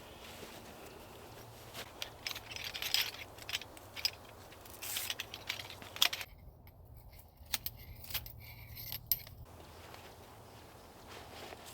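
Light metallic clinks and taps mixed with rustling, as small gear is handled: a string of short sharp knocks from about two seconds in to about nine seconds in.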